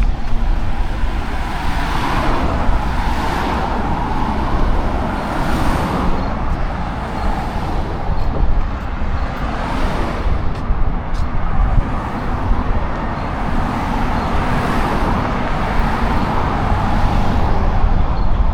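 Steady road traffic noise from a busy city street, with several swells as cars pass by.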